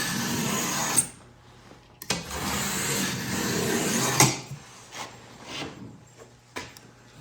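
A knife blade being worked through material in long rubbing, scraping strokes: one stroke ends about a second in, a second runs for about two seconds and ends in a sharp snap. After that come faint scuffs and light knocks.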